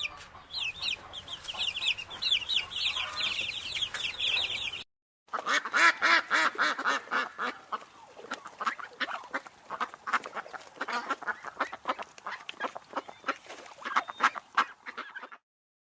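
Rapid, high-pitched bird chirping for about five seconds, then, after a brief pause, a group of fowl calling in quick, repeated notes that stop shortly before the end.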